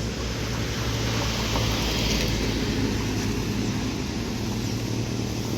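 A vehicle engine running steadily, a low even hum under a wash of road noise.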